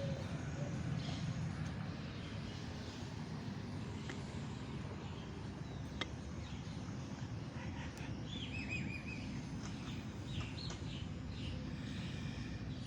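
Birds chirping over a steady low background noise, with a quick run of short falling chirps about eight seconds in.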